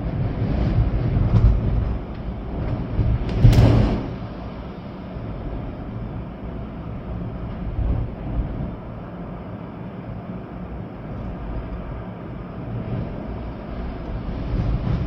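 Storm wind gusting hard with rain, a deep rushing noise that swells and eases. The strongest gust comes about three and a half seconds in, then it settles to a steadier rush.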